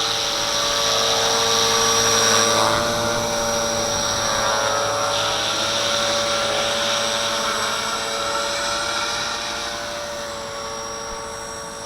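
Walkera V450D01 electric RC helicopter hovering: a steady whine from its motor and rotors. The pitch shifts slightly about two to three seconds in as the throttle is worked to hold it against strong wind, and the sound grows fainter near the end.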